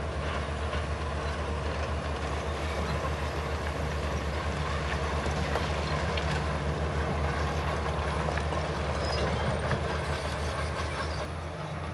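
Bulldozer's diesel engine running under load with its steel crawler tracks clanking and rattling steadily, over a deep engine hum.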